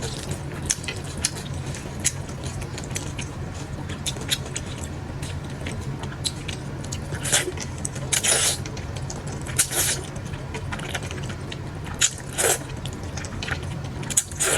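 A person eating close to the microphone: small clicks and smacks of chewing, with several short slurps or sucking bursts, over a steady low hum.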